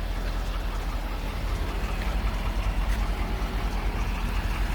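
Ford 6.7-liter Power Stroke V8 diesel idling with a steady low rumble.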